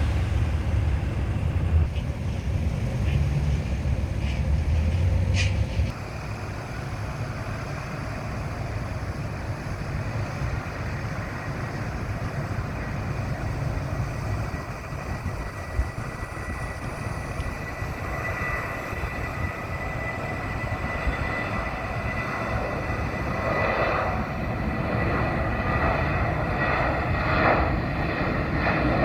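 Jet airliner engines heard from afar, a steady high whine with a rising roar that grows louder over the last ten seconds as the plane draws near. A low rumble at the start stops suddenly about six seconds in.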